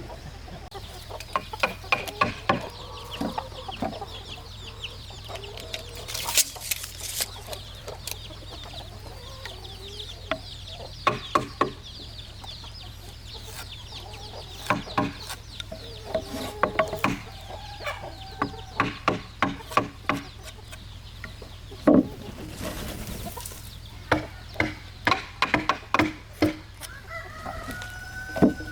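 Chickens clucking, with irregular runs of sharp, loud knocks, typical of hammering and chiselling on timber.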